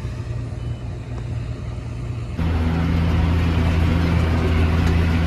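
Tractor engine running steadily while pulling a round baler, a steady low drone. About two seconds in the drone abruptly becomes louder with a different pitch.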